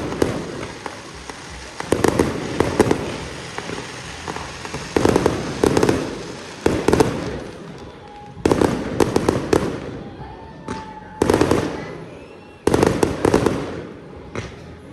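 Fireworks going off in repeated volleys of sharp bangs and crackling, a new cluster every two to three seconds.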